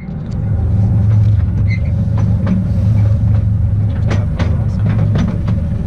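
Small narrow-gauge tourist train running, giving a steady low rumble with scattered sharp clicks and ticks from the wheels on the track.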